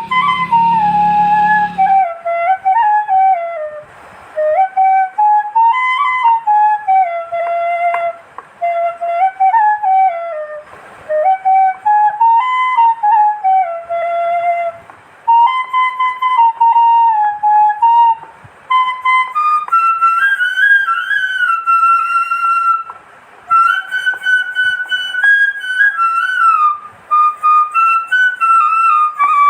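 Background music: a solo flute playing a slow, winding melody in short phrases with brief breaths between them. A low hum sits under it for the first two seconds and then stops.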